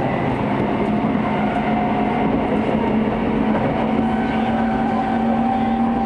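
Running noise heard inside a Hokuso/Chiba New Town Railway 9000-series electric train under way: a steady rumble of wheels on rail with a low motor hum that rises a little in pitch.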